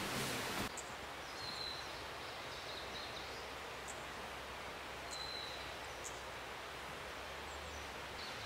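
Forest ambience: a steady faint outdoor hiss with a few short, high bird chirps scattered through it. A brief louder rush of noise at the very start cuts off suddenly.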